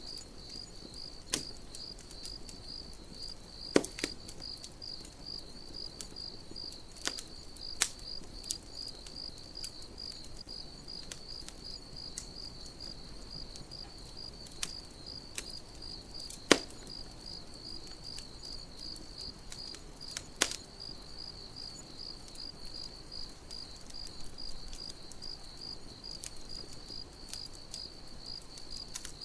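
Crickets chirping in a steady, even pulse, with a campfire crackling: sharp pops every few seconds, the loudest about sixteen seconds in.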